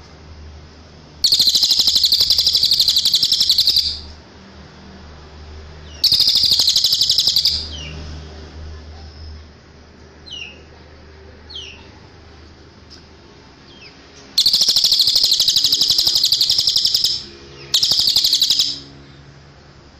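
Cililin songbird singing: four bursts of a rapid, high, buzzing trill, each lasting one to three seconds, with a couple of faint short chirps in the pauses between them.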